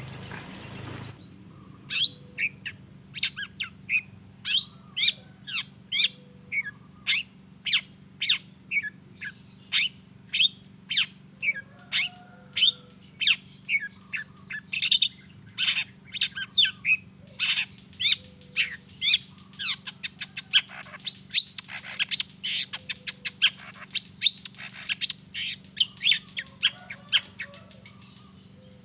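Long-tailed shrike giving a long series of sharp, harsh calls, about two a second, quickening into a faster chatter in the second half, over a faint steady hum.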